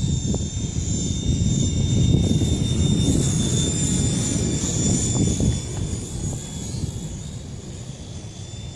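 Small FX070C RC helicopter's electric motor and rotors giving a steady high-pitched whine over heavy wind buffeting the microphone. Both swell around the middle and ease off toward the end.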